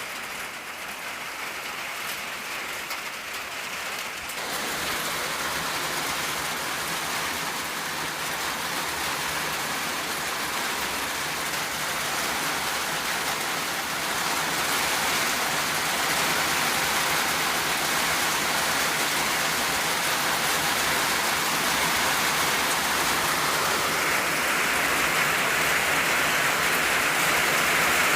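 Rain falling on an old tin roof, a steady dense patter that gets heavier about four seconds in and heavier again later on.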